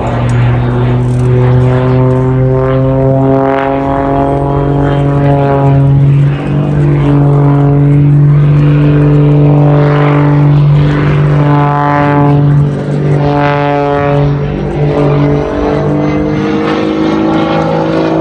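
Jet-assisted aerobatic aircraft in display flight, its piston engine and propeller droning loudly and steadily. The engine note rises about six seconds in and falls back near fifteen seconds as the power changes through the manoeuvres.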